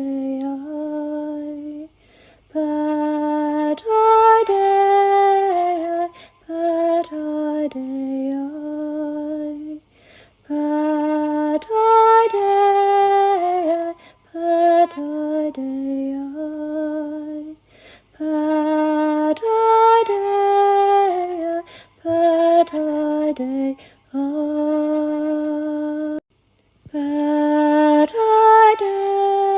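A woman singing unaccompanied in a slow, chant-like lullaby style, holding long notes on a small repeating melody with short pauses between phrases.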